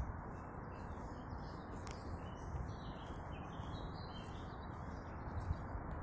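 Small birds chirping and twittering, a cluster of short chirps in the middle, over a steady low rushing noise.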